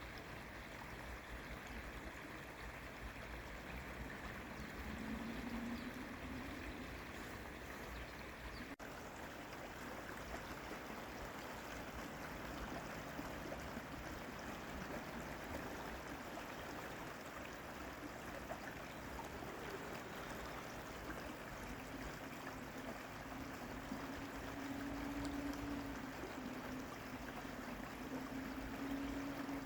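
A stream of water flowing and rushing steadily. A faint low hum comes in briefly about five seconds in and again for the last several seconds.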